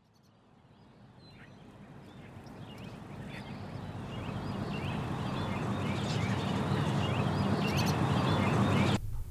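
Birds calling over a steady rushing background noise, fading in gradually from near silence and growing loud, then cutting off suddenly near the end.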